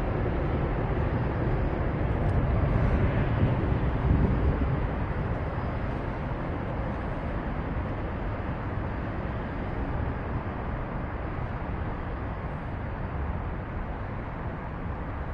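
Metra commuter train rolling past over the bridge: a steady rumble of wheels and engine that swells about three to four seconds in, then slowly fades as the train moves away.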